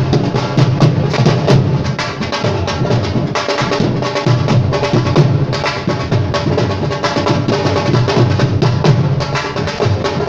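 Live music led by fast, dense drumming, with sustained pitched tones underneath.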